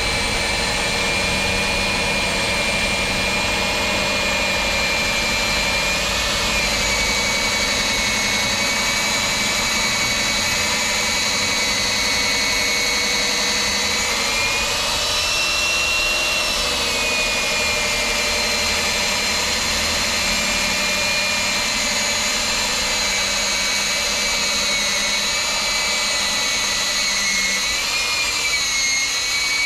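Core drill with a 110 mm core bit boring through a concrete wall, its motor running steadily under load with a high whine that wavers slightly in pitch.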